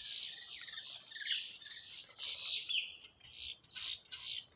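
Wild birds calling: a run of harsh, scratchy squawks, several a second, with a short pause a little past the middle.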